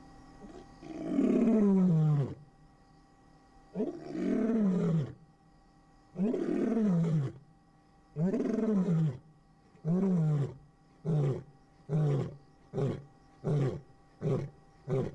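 Male African lion giving his territorial roar. There are several long, deep roars, each falling in pitch, then a run of short grunts that come closer and closer together.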